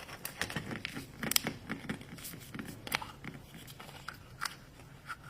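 Hands breaking open a Kinder Surprise egg: the chocolate shell cracks and the foil and plastic capsule crinkle and click, a scattered run of small crackles with a couple of sharper snaps.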